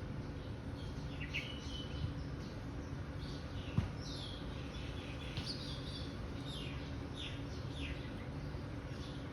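Birds chirping outdoors: short, high chirps come every second or so over a steady low background rumble, with one sharp click a little before the middle.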